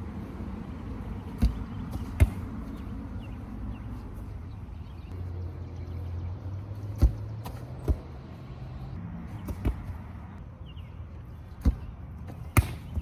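A football being struck again and again, giving about seven sharp thuds at uneven intervals over a low steady rumble.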